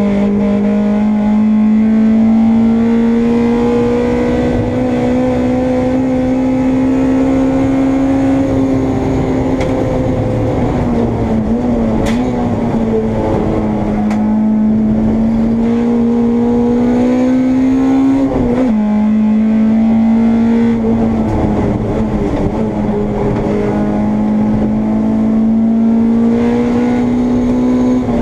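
Honda Integra race car engine heard from inside the car, held at high revs in a high gear with the pitch climbing slowly along a straight. About a third of the way through the revs fall and waver as if braking and downshifting, then climb again, with a sudden drop of an upshift about two-thirds through and another right at the end.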